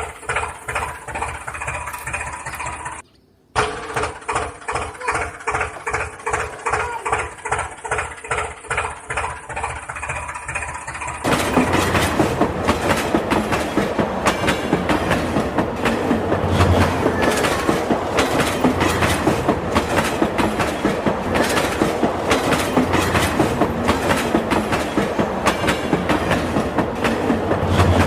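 Rhythmic clickety-clack running sound of a train, pulsing about three times a second. It cuts out for half a second about three seconds in. About eleven seconds in it turns louder and fuller.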